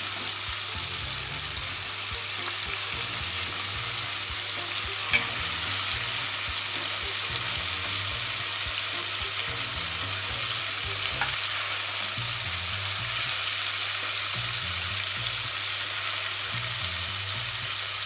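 Chicken pieces coated in potato starch and tempura flour deep-frying in hot oil: a steady sizzling hiss. One sharp click about five seconds in.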